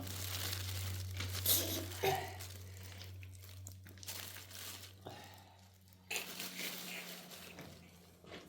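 Crinkling, rustling noises in irregular bursts, over a steady low hum.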